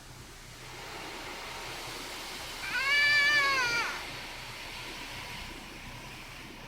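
A frightened cat meows once, a long call that rises and then falls in pitch, about halfway through, over the steady hiss of the car wash heard from inside the car.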